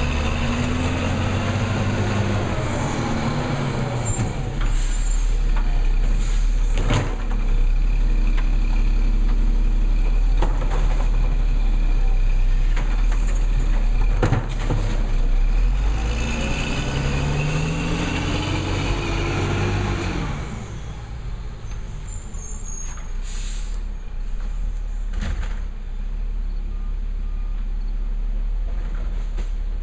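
Labrie Cool Hand garbage truck working its route: the engine revs up twice, about fifteen seconds apart, with short air-brake hisses and a few sharp knocks in between.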